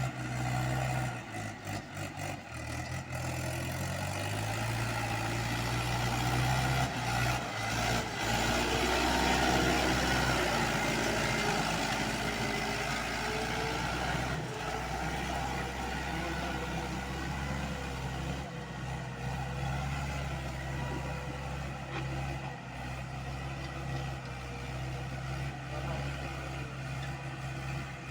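Tractor diesel engine running hard at high revs. Its pitch climbs between about four and ten seconds in, then holds steady.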